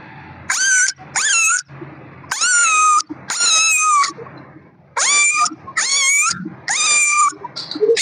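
Kitten meowing repeatedly: about seven high-pitched meows in a row, each rising at the start then holding, with short gaps between.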